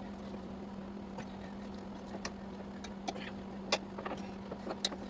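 A few light, separate metallic clicks and taps of hand tools at a motorcycle's rear axle castle nut, over a steady low hum.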